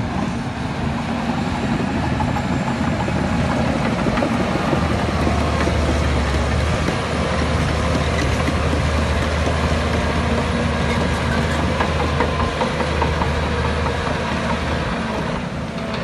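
Crawler bulldozer's diesel engine running steadily under load, with continuous clanking from its steel tracks.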